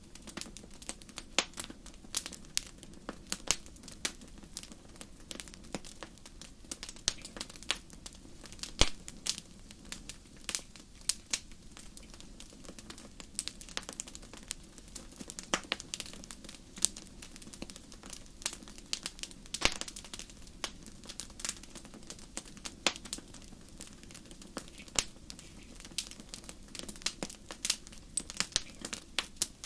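Wood fire in a fireplace crackling, with frequent sharp irregular pops and snaps over a low steady rumble.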